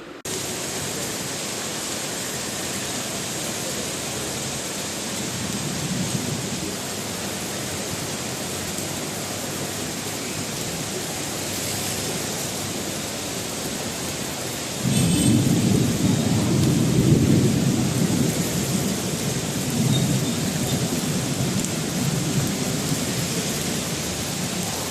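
Heavy rain falling steadily in an even hiss. About two-thirds of the way in, a louder low rumble sets in suddenly and goes on almost to the end.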